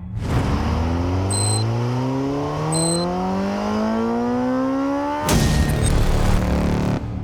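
Superbike engine revving up in one long, smooth rise without a gear change. About five seconds in it is cut off abruptly by a louder, noisier passage.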